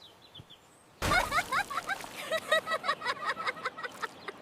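Cartoon sound effect of a bird dropping landing on a head: a sudden wet splat about a second in, followed by a busy run of short, wavering chirpy sounds.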